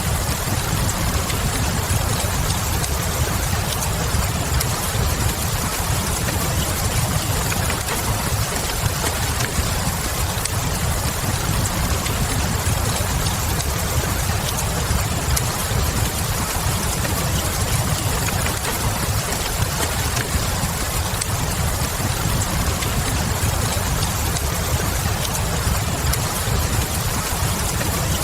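Steady rain with a deep low rumble beneath it, mixed with the light crackle of a wood fire burning in a fireplace.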